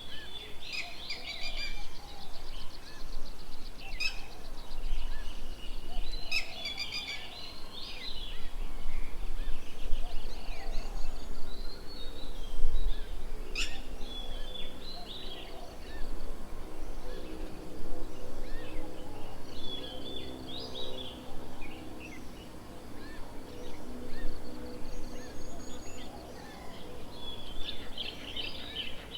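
Several birds chirping and calling in short, repeated phrases, with a few sharp clicks and a low rumble underneath.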